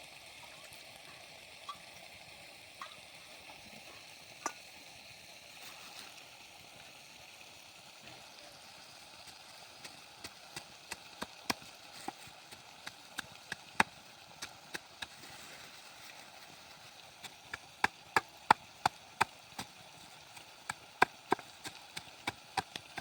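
Chopping with a blade: sharp, irregular knocks of a knife striking a board or wood. They are sparse at first and come quicker from about halfway through, over a faint steady hiss.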